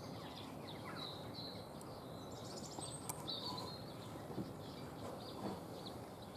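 Small garden birds chirping on and off, with short high notes clustered a little before the middle, over a faint steady background hiss.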